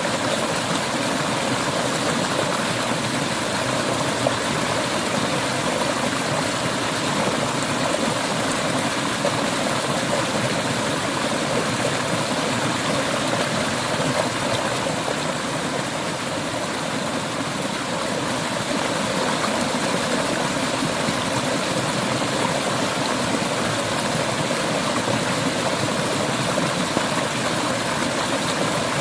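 Clear mountain river water flowing steadily over rocks, a continuous even rush.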